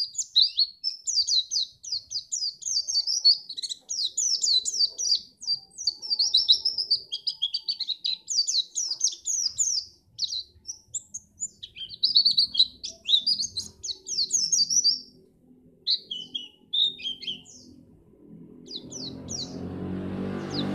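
A white-eye (pleci) singing a fast, continuous twittering song of rapid high chirps. The song thins out after about fifteen seconds, and a rising hiss with a low steady hum comes in near the end.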